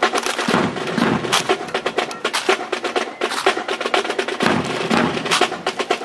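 Drill rifles being slapped, spun and handled by a drill team: rapid, irregular sharp wooden clicks and knocks, with two heavier, lower thuds, one about a second in and one near the five-second mark.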